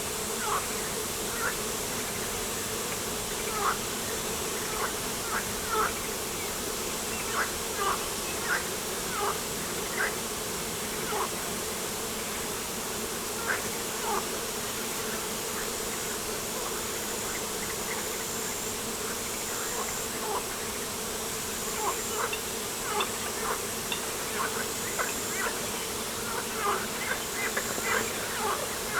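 Steady buzzing drone of insects. Short, sharp chirps come at irregular intervals and grow more frequent near the end.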